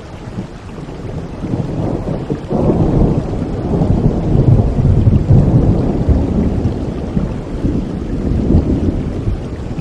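Steady rain with a long rolling rumble of thunder that builds about two and a half seconds in, is loudest around the middle and slowly dies away.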